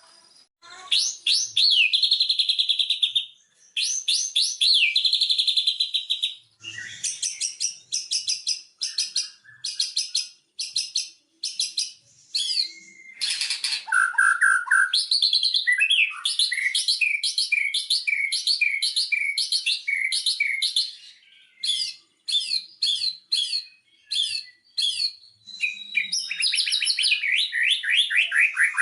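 White-rumped shama singing a loud, varied song: fast chattering trills, runs of rapid repeated notes and sweeping whistled phrases, broken by short pauses.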